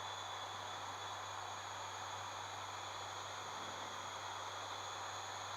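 Steady cabin drone of an ATR 72-600 turboprop cockpit in flight: a constant low hum under an even airflow hiss, with a faint steady high whine on top.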